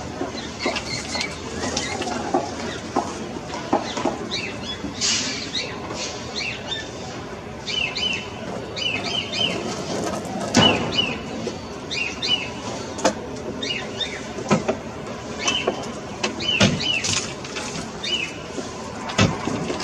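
Small birds chirping in short, repeated high calls, over a background of scattered clicks and knocks.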